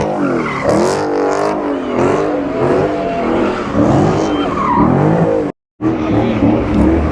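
A car engine revving hard, its pitch rising and falling over and over, with tyre squeal from a burnout. The sound cuts out completely for a moment about five and a half seconds in.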